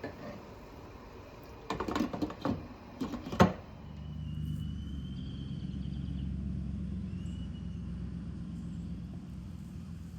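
Several sharp knocks and clatters, the last the loudest, then a steady low rumble.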